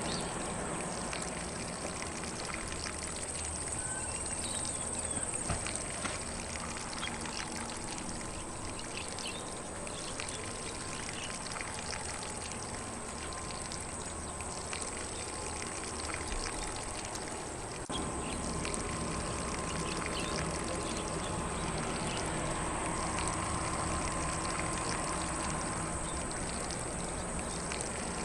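Lawn sprinkler spraying water steadily across grass, with faint birdsong in the background.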